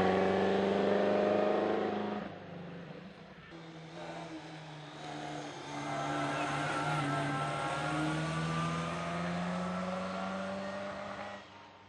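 Classic racing car engine accelerating hard up the hill climb, its revs rising through the gears. It drops away abruptly about two seconds in, then another full-throttle run builds up and fades near the end.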